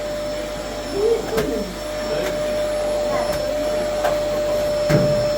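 A small electric motor running steadily with a constant whine, with a couple of brief knocks over it.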